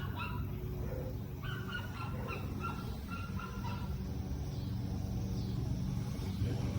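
Short, repeated animal calls over the first few seconds, above a steady low rumble.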